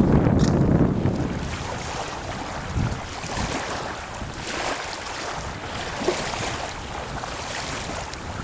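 Wind buffeting the microphone, heaviest in the first second and then easing, over a steady wash of open sea water.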